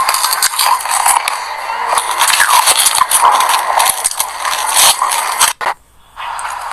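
Close-up mouth chewing a mouthful of raw white sesame seeds: a dense, continuous crackle of tiny crunches. It cuts off suddenly about five and a half seconds in.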